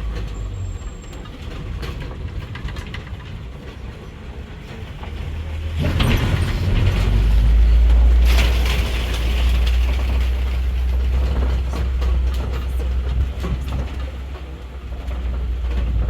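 Safari ride truck driving over a rough dirt track: a steady low rumble, with louder rattling and jolting from about six to ten seconds in.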